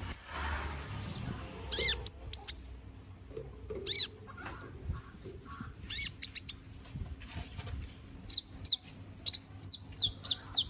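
Kolibri ninja, a small Indonesian sunbird, singing in full voice: high-pitched chirps and sweeping notes, growing into a quick run of short falling notes over the last few seconds.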